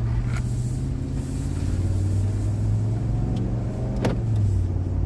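Vehicle engine and road noise while driving, the engine note steady and dipping slightly near the end, with one sharp click about four seconds in.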